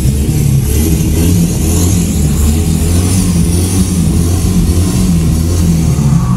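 Car engine sound effect, a loud steady low drone, with a hiss in the highs that swells around the middle.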